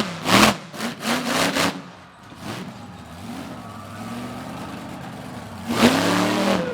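Monster truck engine revving: several sharp throttle blips in the first two seconds, a lower steady run, then a long hard rev climbing in pitch near the end.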